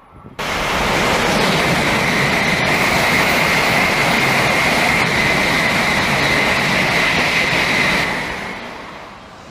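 High-speed train rushing past at speed: a loud, steady rushing noise that starts abruptly about half a second in and fades away from about eight seconds in.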